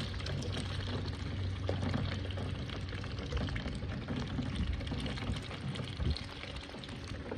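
Water pouring and splashing steadily, with many small crackles over a constant low hum.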